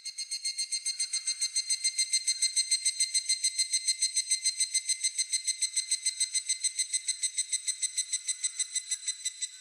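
Higurashi (evening cicada) calling: a fast, even run of ringing pulses, about ten a second. It builds up over the first second or so and stops near the end.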